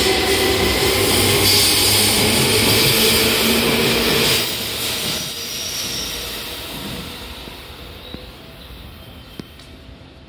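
Seibu 2000 series electric train heard from inside a car: loud running noise with a faint whine. It drops suddenly about four seconds in, then fades steadily, with a few faint clicks near the end.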